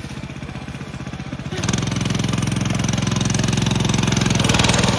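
Coleman minibike's small single-cylinder engine running quietly at low throttle, then opened up about a second and a half in and running louder and steady.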